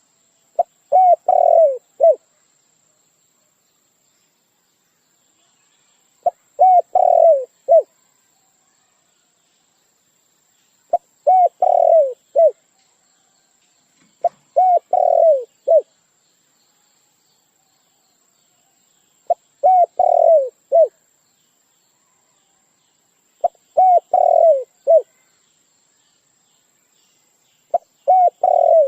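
A bird's lure call, with dove-like coos: seven short phrases of four or five hooting notes, the longer middle notes sliding down in pitch, repeated every three to five seconds with silence between.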